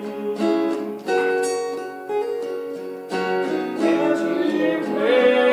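Acoustic guitar strumming chords in an instrumental gap of a live song, each chord struck and left to ring, with fresh strums about every second or two.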